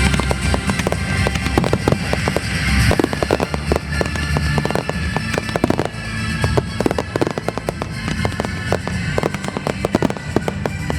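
Fireworks finale at close range: rapid, overlapping shell bursts with dense crackling, heavy booms in the first three seconds, then a thick stream of sharp cracks.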